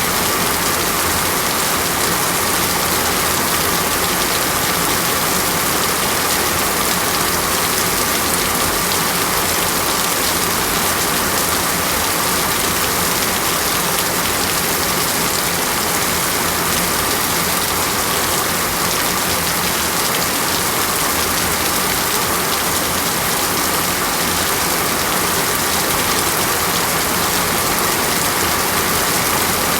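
Heavy steady rain falling in a forest, a dense even hiss of drops with no breaks.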